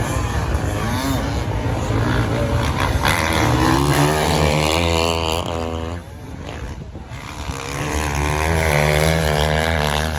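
Racing engines of sand-racing motorbikes and quads revving hard as they go by, the pitch climbing and wavering. It drops off briefly about six seconds in, then builds again.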